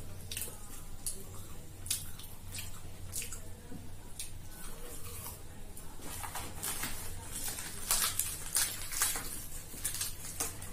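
Eating sounds: wet chewing and lip smacks of luchi (puffed fried bread) with egg curry, a string of short, sharp mouth clicks that is busiest in the second half, over a low steady hum.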